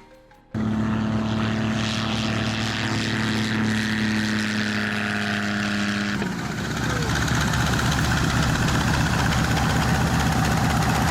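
Propeller aircraft engine running loud and steady with a clear hum. About six seconds in, it turns to a rougher, fast-pulsing buzz.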